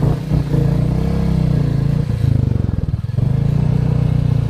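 Royal Enfield motorcycle engine running under way, its exhaust note steady, easing off briefly a little past halfway before picking up again.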